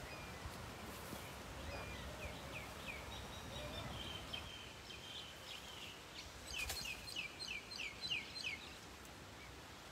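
A bird calling in two quick runs of short, falling high notes: a faint run about two seconds in, then a louder, faster run past the middle. Under it is a faint steady hiss of outdoor background noise.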